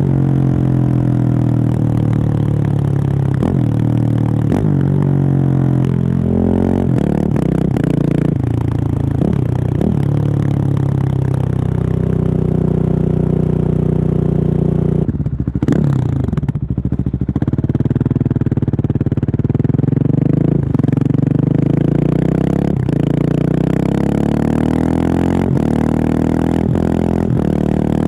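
Husqvarna 701 supermoto's single-cylinder engine, heard through a Remus exhaust with the dB killer removed, while the bike is ridden. The revs rise and fall through a string of gear changes. About halfway the throttle shuts briefly, and then the revs sweep sharply back up.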